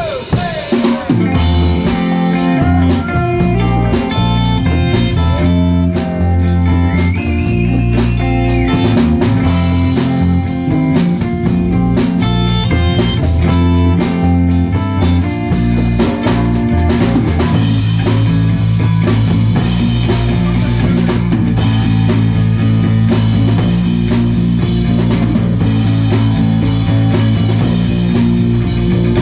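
Live rock band playing: electric guitar, bass and a drum kit, with a melody line that bends up and down in pitch in the first ten seconds.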